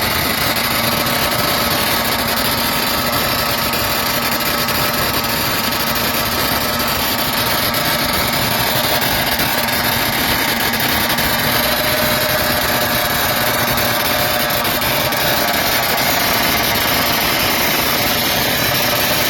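Loud motorcycle engine running steadily with a high, even note.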